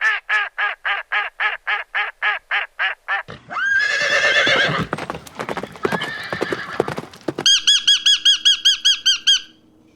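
Animal calls in three runs. First come rapid repeated pitched calls, about four a second. From about three seconds in there are harsher, grating calls with sliding pitch. Near the end comes a fast run of high chirping notes.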